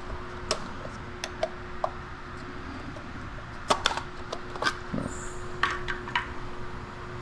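Scattered sharp clicks and light knocks of tools and a small part being handled, over a steady faint hum.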